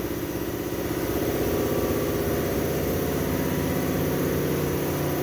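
A 2022 Toyota Tundra's twin-turbo V6 idling steadily through a tuned exhaust. It gets a little louder about a second in.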